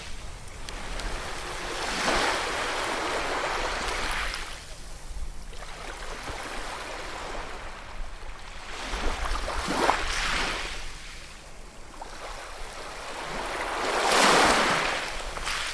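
Ocean waves breaking and washing on the shore, the surf swelling and ebbing three times, the loudest wash near the end.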